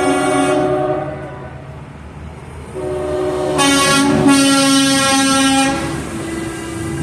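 Air horns on passing trucks blowing long, loud chords of several tones: one horn cuts off about a second in, and after a short lull another sounds for about three seconds, followed by a further blast near the end.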